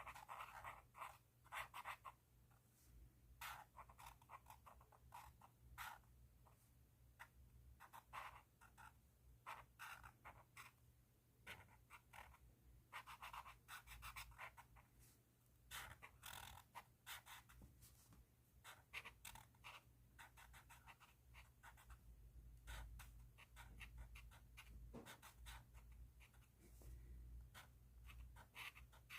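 Pen tip scratching across paper in quick, irregular strokes, as in writing or colouring; faint.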